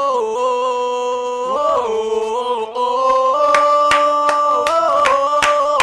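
Voices singing long held notes, a sustained 'whoa' refrain, with hand claps joining in a steady beat about three and a half seconds in.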